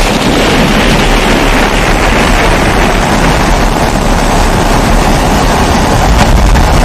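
Pressurised kerosene stove (primus-type 'babour') burning, a steady rushing hum with a deep low rumble underneath.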